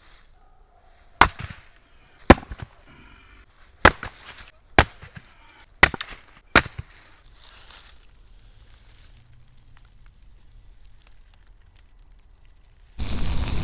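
Axe striking wood, six sharp chops in the first seven seconds, coming about one a second. A loud rushing noise cuts in just before the end.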